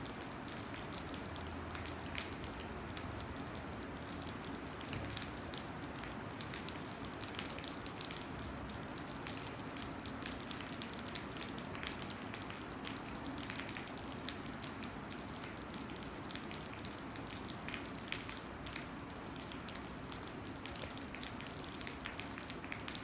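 Steady rain with a dense patter of separate drops.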